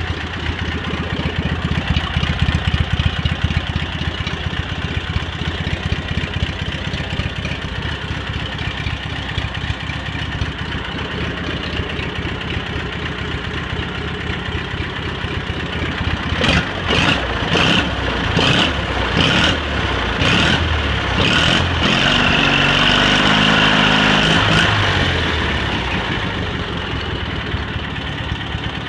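Cub Cadet 782 garden tractor's Kohler KT-17 twin-cylinder engine running at a steady idle. About two-thirds of the way in it takes several quick throttle blips, then is revved up and held for a few seconds before settling back to idle.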